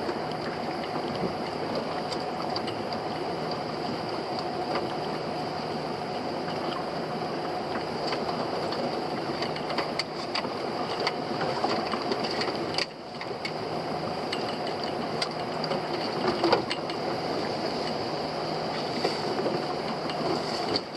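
A small fishing boat's engine running steadily, with scattered light clicks and knocks from the crab pot and catch being handled.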